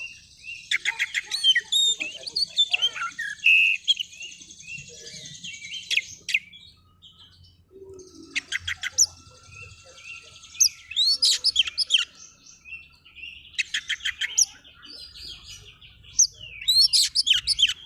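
Oriental magpie-robin (kacer) singing hard: rapid runs of chirps, whistles and trills in bursts, with a short lull partway through.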